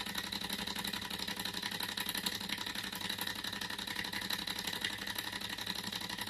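Small thermoacoustic engine model running fast and steadily, its piston and flywheel at about 2800 to 3000 rpm giving a rapid even mechanical chatter with a steady high whine.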